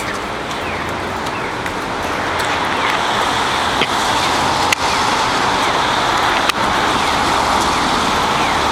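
Rain and car traffic on a wet street, making a steady hiss that swells a little about two or three seconds in. A few sharp taps come near the middle.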